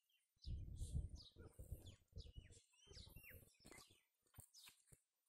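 Faint birdsong: many short, high chirps, each falling quickly in pitch, with a brief low rumble about half a second in.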